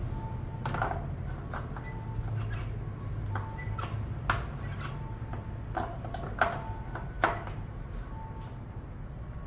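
Scattered light knocks and clicks, a few sharper ones among them, over a steady low hum.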